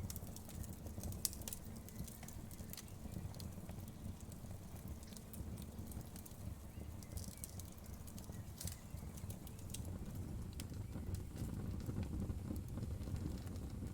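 Wood fire burning, a steady low rumble of flames with scattered sharp crackles and pops of the burning wood.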